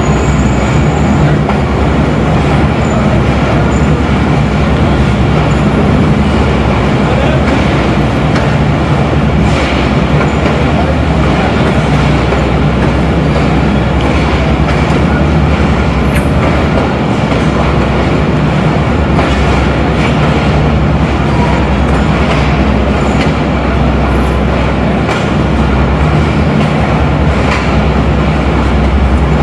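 Passenger train running steadily at speed, heard from on board: a loud, continuous rumble of wheels on track with a few faint clicks over rail joints.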